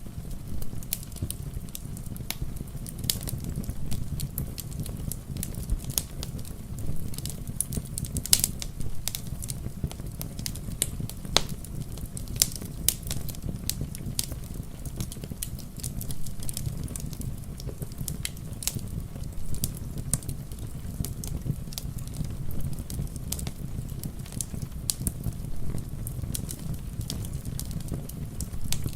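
Wood fire crackling, with frequent sharp pops at irregular intervals over a steady low rumble, and rain pattering underneath.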